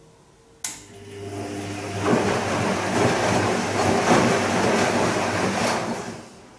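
Bosch Serie 2 Vario Perfect washing machine near the end of its 41-minute Silk program: a sharp click, then a motor hum that builds into a loud rushing noise for about four seconds before dying away.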